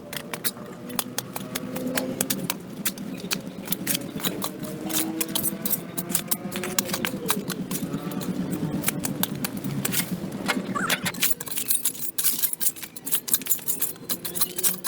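Rapid, irregular clicks and scrapes, typical of a hand tool scraping dirt and debris off a sidewalk, over a low hum that bends in pitch about halfway through.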